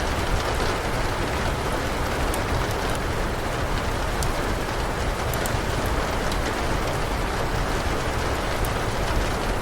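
Steady rain, with scattered sharp crackles from a wood fire in a fireplace.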